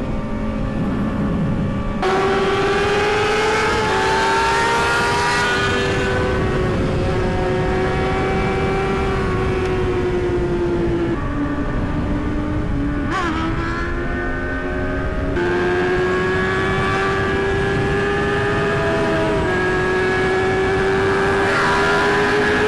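Yamaha R6 sport bike's inline-four engine running while riding. It holds a steady, fairly high note that rises and falls slowly, with a few sudden shifts in pitch, over wind and road noise.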